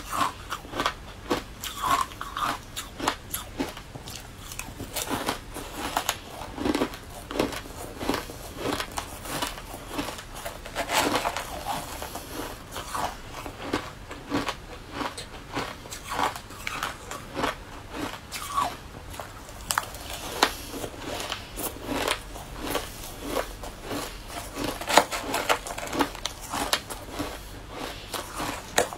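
A person biting and chewing spoonfuls of a crumbly green food close to a clip-on microphone: a steady run of irregular crunches, several a second.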